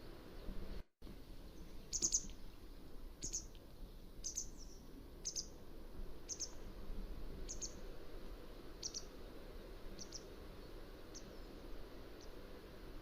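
Mountain wagtail calling: a series of about ten short, high chirps at roughly one a second, growing fainter toward the end.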